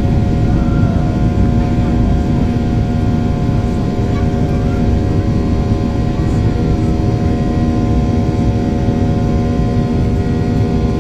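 Airliner cabin noise in flight: a loud, steady drone of engines and airflow, with several steady tones above it.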